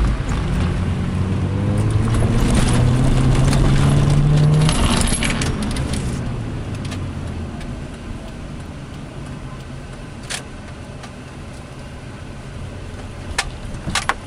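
Car engine heard from inside the cabin, revving up with a rising pitch for about five seconds, then easing off to a quieter low rumble as the car rolls slowly. A few sharp clicks or rattles come near the end.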